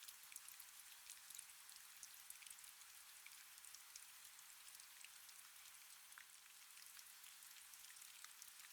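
Faint, steady rain: an even hiss with many small drop ticks scattered through it.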